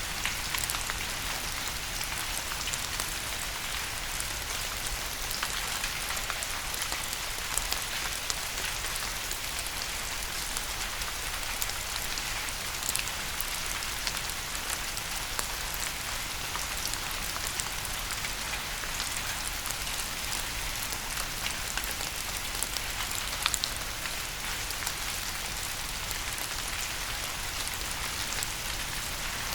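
Steady rain: an even hiss scattered with many small, sharp drop ticks.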